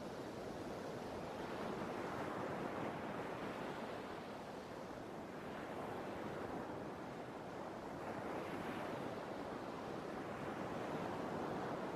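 Sea surf washing in continuously, swelling and easing every few seconds as the waves come and go.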